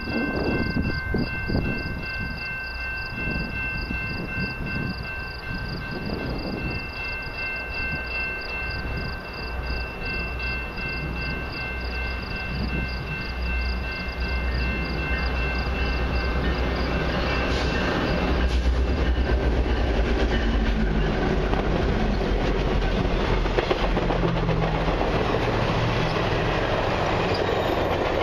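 Diesel-hauled passenger train approaching and passing. A low rumble builds through the first half and peaks as the locomotives go by, about two-thirds of the way in. Then the passenger cars roll past, their wheels clicking over the rail joints.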